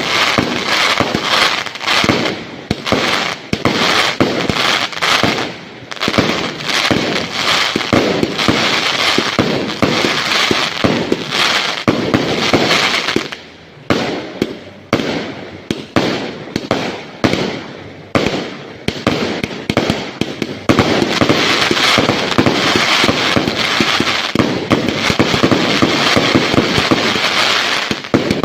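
Fireworks going off in rapid, loud strings of bangs and crackles, almost unbroken in the last third.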